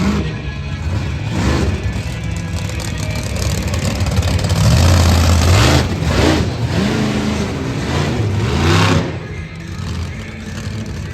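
Monster truck engines revving hard, their pitch repeatedly climbing and falling, loudest around five seconds in and again just before nine seconds, with music playing underneath.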